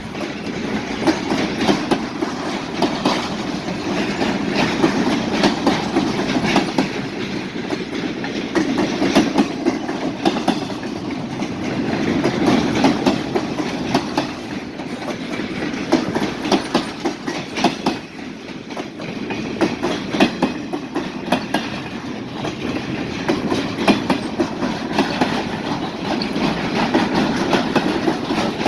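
Freight train cars rolling past, their wheels clicking steadily over the rail joints.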